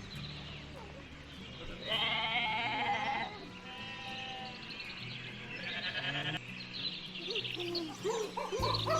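Bleating, a long wavering bleat about two seconds in and a shorter one around six seconds, over background music with a steady low bass.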